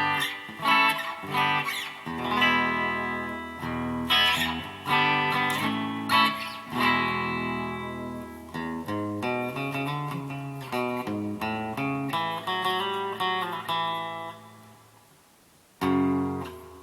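Donner DST-200 electric guitar played through an amplifier on pickup switch position 2 (bridge and middle pickups together), picking a run of notes and chords. Near the end a chord is left to ring and fade out, then a fresh strum comes in.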